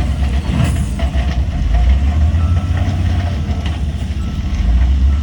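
Heavy diesel engines of earthmoving machinery running steadily with a deep rumble, with a few metallic clanks. A faint reversing alarm beeps about once a second through the second half.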